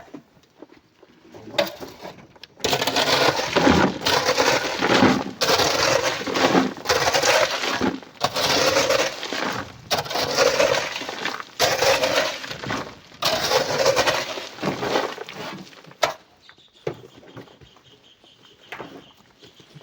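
Sand and coral rubble being loaded, one scoop after another, each a crunching, rattling rush of grit and broken coral. The scoops come about every second and a half for some thirteen seconds, then stop.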